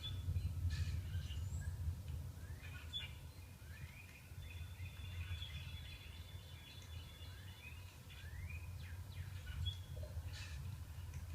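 Small songbirds chirping, a mix of quick rising chirps and a few short whistles, playing back from a bird video for cats over a steady low hum.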